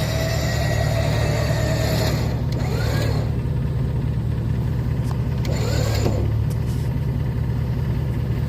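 A vehicle engine running steadily at a low idle, with a few brief squeaks over it.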